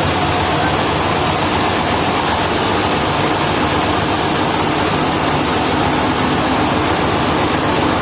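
Sawmill machinery running steadily, a constant engine-driven mechanical noise with a faint steady hum that comes in about three seconds in.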